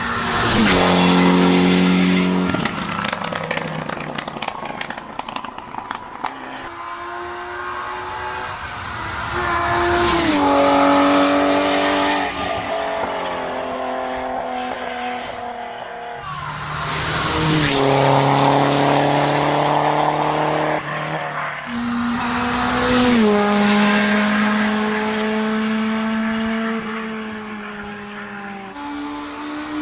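Rally cars' engines being driven hard past the listener, their pitch climbing and dropping sharply at each gear change. The sound swells and fades several times as the cars go by.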